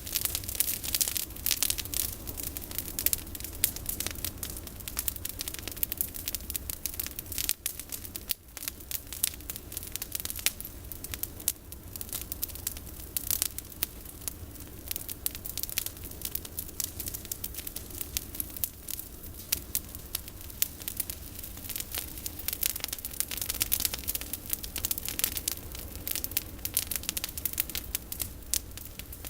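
Campfire of pruned olive branches crackling, with dense, irregular pops and snaps.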